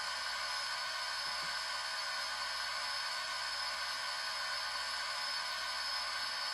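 Sound decoder of a HO scale Shay model playing its steam dynamo (turbo-generator) sound through the model's small speaker, switched on with the headlight: a steady hiss with a faint whine.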